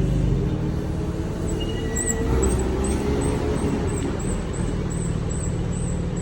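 Low, steady rumble of car engines running. A faint high chirp repeats about three times a second from about a second and a half in.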